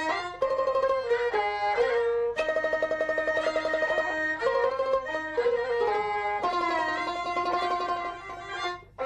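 Jinghu, the high-pitched Peking opera fiddle, playing an instrumental passage of an opera aria over plucked-string accompaniment. The melody moves quickly from note to note, then holds a long wavering note in the second half before dropping away briefly near the end.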